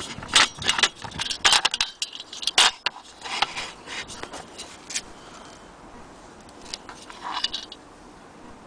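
Small brass and metal stove parts clinking, tapping and scraping together as they are handled. The knocks come thick and fast for the first five seconds, then thin out to a few scattered clicks.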